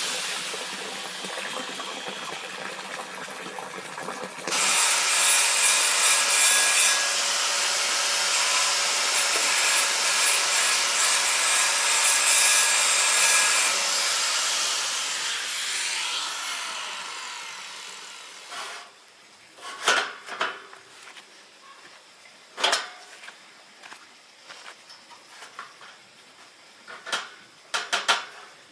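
A power tool, likely an angle grinder, runs and cuts or grinds iron bar: a loud steady hiss with a motor whine. It gets louder about four seconds in as the cut bites, then winds down after about fifteen seconds. A few sharp metal knocks follow near the end.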